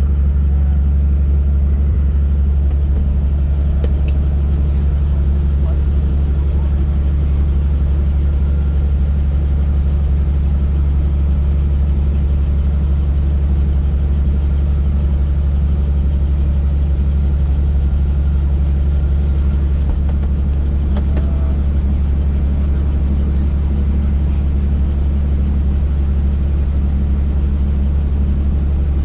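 Helicopter engine and rotors running in a steady, loud, low drone with a constant hum.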